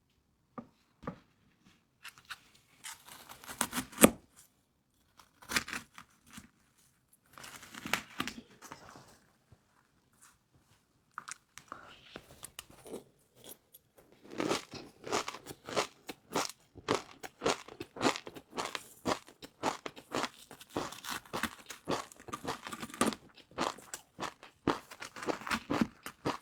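Close-miked eating sounds of crispy fried noodles: scattered crunches and clicks at first, then from about fourteen seconds in a run of rapid crunching as the noodles are bitten and chewed.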